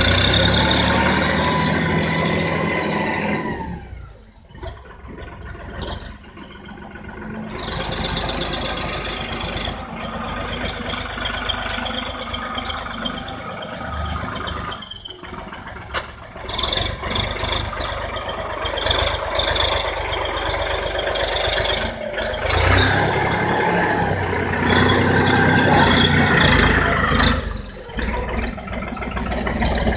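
Erkunt 70 tractor's diesel engine running while pulling a manure spreader, with rattling from the machinery. The engine is loud at the start, drops away about four seconds in, builds again from about eight seconds and is loudest between about 23 and 27 seconds, its pitch rising and falling several times.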